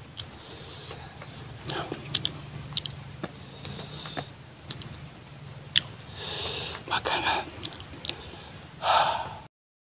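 Close-up eating sounds: sharp clicks and crackly crunching of a man chewing, over birds twittering in short chirpy phrases and a steady high insect tone. The sound cuts off suddenly near the end.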